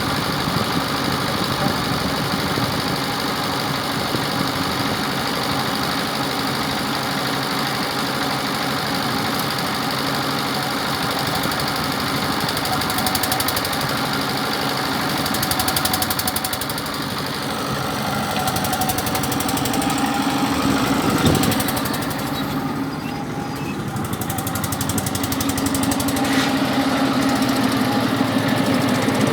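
An engine running steadily at idle, with one sharp knock about three quarters of the way through.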